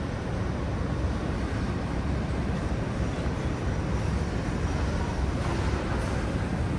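Steady low rumble of city street traffic and general urban noise, with no single event standing out.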